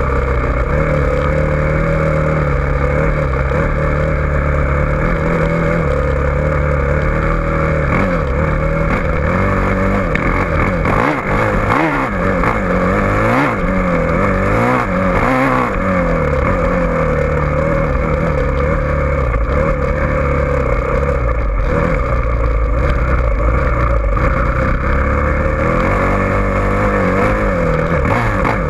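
Dirt bike engine running hard, revving up and down again and again, with the pitch swinging most between about ten and sixteen seconds in.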